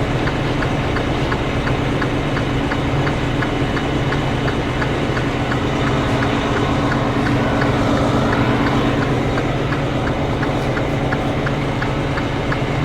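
Semi-truck diesel engine idling steadily, with a light, evenly spaced ticking over the hum.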